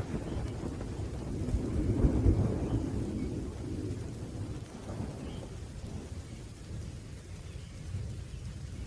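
Rolling thunder rumbling low, swelling about two seconds in and then slowly dying away, over a faint hiss of rain.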